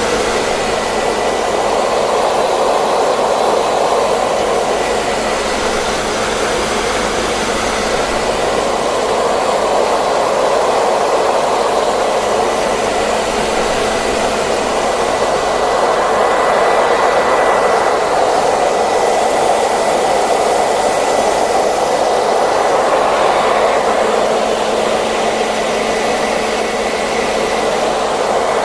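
Electric hair dryer running continuously: a steady rushing of blown air, with a faint high whine from the motor and fan.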